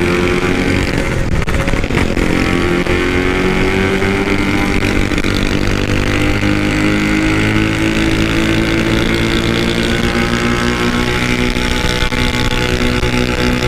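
Yamaha RX-King two-stroke single running hard through a loud aftermarket exhaust. It pulls under acceleration, its pitch climbing slowly and steadily, after a brief unsettled moment about a second in.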